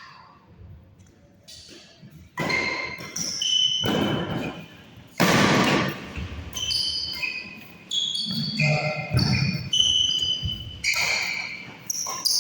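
Badminton players' shoes squeaking sharply and repeatedly on an indoor court floor, with thuds of footfalls, starting about two seconds in.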